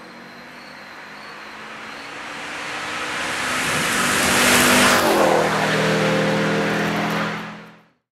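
A car approaching at speed and passing by. The engine and tyre noise build steadily to a peak, the engine note drops in pitch as it goes past, and the engine keeps running until the sound cuts off suddenly near the end.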